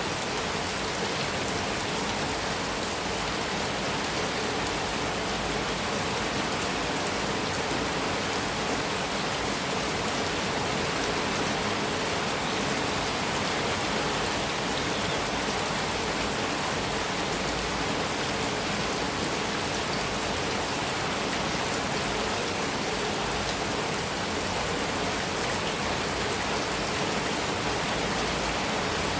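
Heavy rain falling steadily on a metal roof, an even, dense hiss with no thunder.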